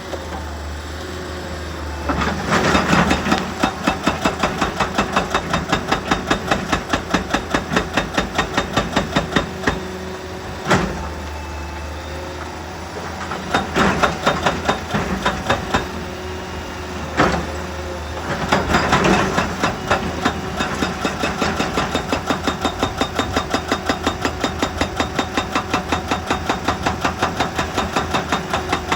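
A heavy machine's engine running steadily, with three long bursts of rapid, evenly spaced pounding on rock and two single sharp knocks between them.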